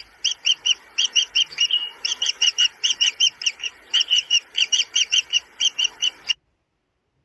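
Young kingfisher calling in a fast, even series of shrill chirps, about six a second, which cut off suddenly near the end.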